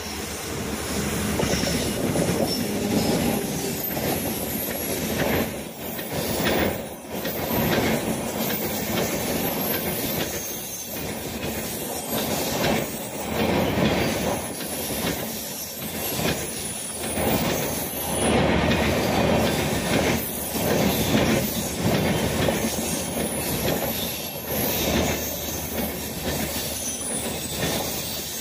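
Tejas Rajdhani Express, an electric locomotive hauling its coaches, passing close by. The coaches make a steady rolling noise, with repeated knocks as the wheels run over the rail joints.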